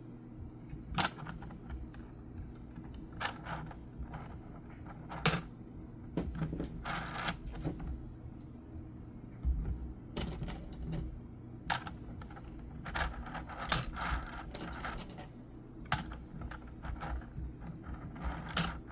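Crossbow bolts being loaded by hand, one at a time, into a 3D-printed plastic magazine: sharp clicks and clatters as each bolt goes in and drops down the stack, spaced irregularly and coming in denser clusters in the second half.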